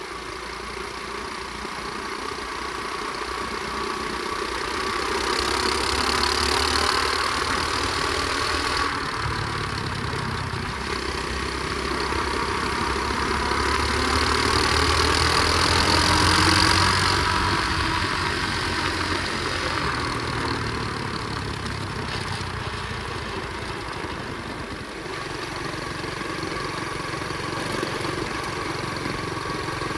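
Flywing pit bike engine running as the bike is ridden slowly, its sound swelling louder twice, about a quarter of the way in and again around the middle, then easing off.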